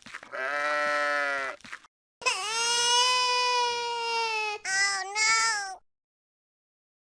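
Goat bleating: three calls, the middle one long and higher-pitched, the last short and wavering.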